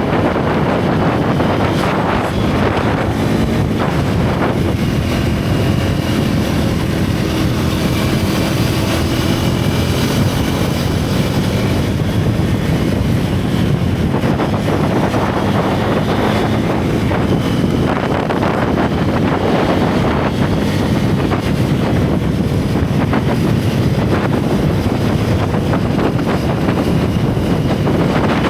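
Single-cylinder motorcycle engine and exhaust running steadily at riding speed, under heavy wind rush on the camera's microphone.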